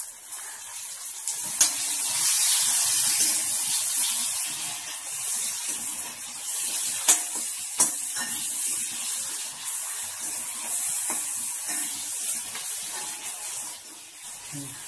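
Chopped onions and tomatoes sizzling in hot oil in a frying pan as they are sautéed with a metal spatula, with a few sharp clicks of the spatula against the pan.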